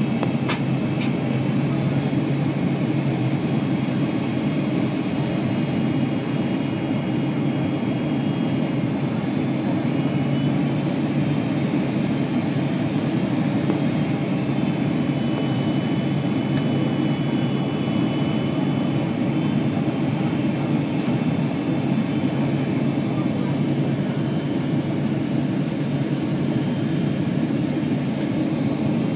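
Steady roar of a Boeing 767-300 jet airliner's engines and airflow heard from inside the passenger cabin, unchanging throughout, with a faint click near the start.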